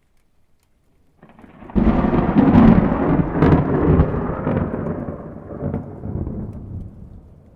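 A thunderclap: a low rumble builds about a second in, breaks into a loud crack, then rolls on with several sharper cracks before fading away.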